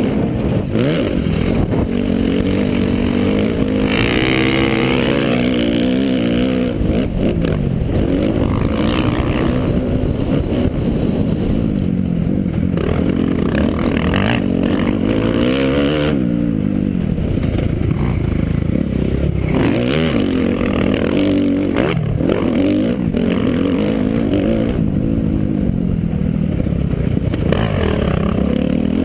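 Motocross dirt bike engine being ridden hard, revving up and falling back over and over as the rider works the throttle and gears, its pitch rising and dropping every few seconds.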